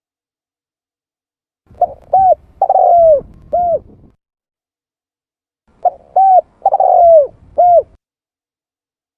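Spotted dove (tekukur) cooing: two identical phrases, each of four arching coo notes (two short, one longer falling note, then a short last one), with silence before and between them. This is a recorded lure call used for bird trapping.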